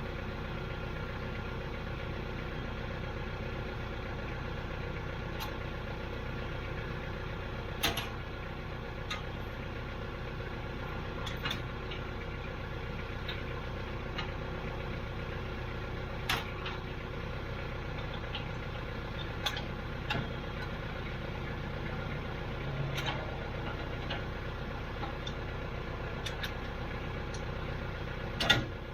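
TYM T574 tractor's diesel engine idling steadily. A handful of short sharp clicks are scattered over it, the loudest near the end.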